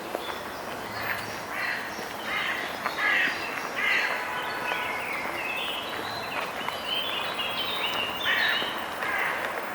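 Several birds giving short calls over and over, some overlapping, over steady background noise.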